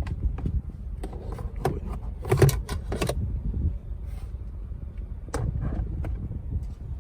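Handling clatter of a cordless Mi Vacuum Cleaner mini: a string of plastic clicks and knocks as its parts are detached and put away, the loudest cluster about two and a half seconds in and another about five and a half seconds in, over a steady low rumble.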